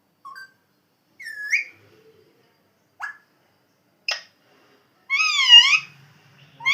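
Pet parrot calling: a few short squeaks and chirps, then about five seconds in a longer, wavering whistle-like call.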